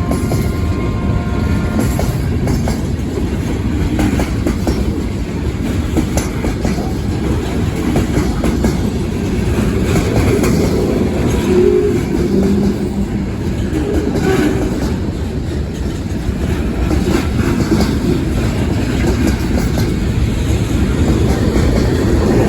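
Freight cars of a South Carolina Central local train rolling past at speed: a steady loud rumble with wheels clacking over rail joints.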